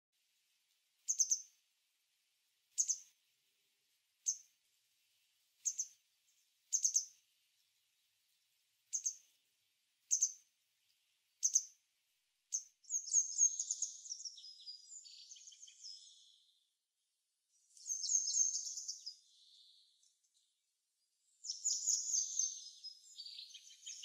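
Small songbirds calling: eight short, high single calls spaced about one to two seconds apart, then from about halfway on, longer high twittering phrases in three bursts.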